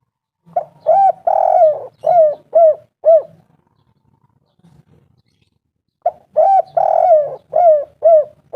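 Spotted dove cooing: two song phrases about five and a half seconds apart. Each is a run of short, arched coos with a longer rolling coo near the start.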